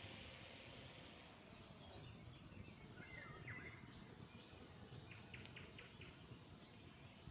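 Faint mountain outdoor ambience with a few soft bird chirps about three seconds in and a couple of brief high ticks a little later.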